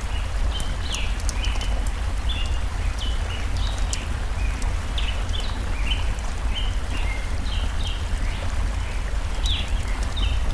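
Small songbirds chirping in quick short notes, over and over, above the steady rush of a flowing forest stream with a deep low rumble. Faint light ticks come through now and then.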